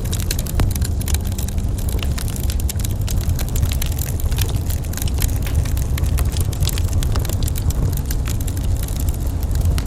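Wood fire crackling in a fireplace: many small sharp pops and snaps, irregular and close together, over a steady low rumble.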